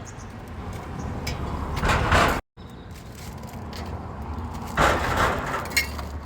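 Street traffic: a steady low engine rumble with louder noisy swells twice, as vehicles pass close by.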